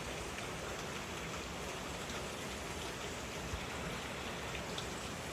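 Steady rain falling hard, an even hiss with a few faint drop ticks.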